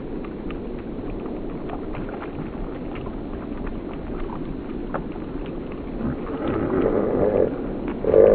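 A bird recording slowed far down: a low, noisy haze with faint scattered ticks, then a deeper call swelling from about six seconds in, louder near the end, and cutting off suddenly.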